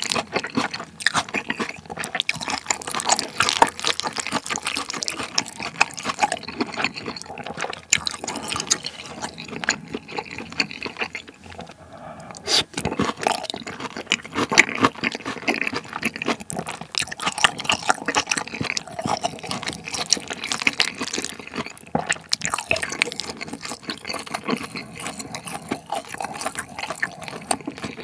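Close-miked eating of pork-neck curry rice: wet, sticky chewing and mouth smacking in a dense run of small clicks, with a wooden spoon scooping from a ceramic bowl now and then.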